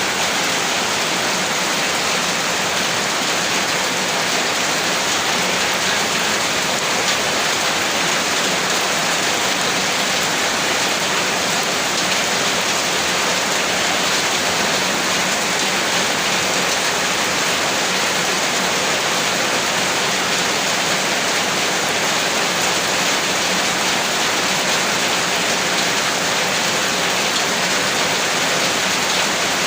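Steady rain falling, an even unbroken hiss with no thunder or pauses.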